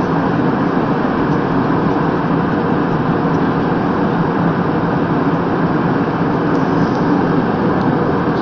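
Airplane cabin noise in flight: a steady, unbroken roar of engines and rushing air.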